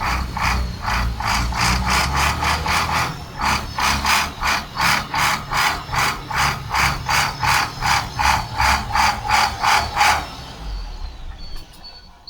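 International DT466 diesel engine being cranked and firing on ether (starting fluid) only, in loud, even pulses about four a second, then stopping about ten seconds in. It runs only on the ether because the injectors are getting no fuel.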